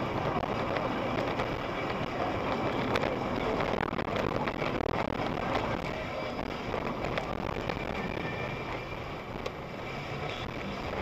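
Steady road and engine noise of a car driving, as picked up by a dashcam microphone, with scattered light clicks and rattles.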